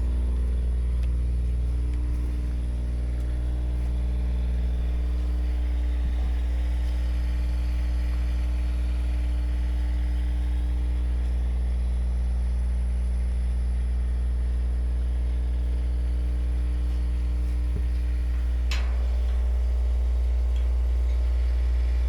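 An engine running steadily at a constant speed, a low hum with even tones, with a brief falling whistle about nineteen seconds in.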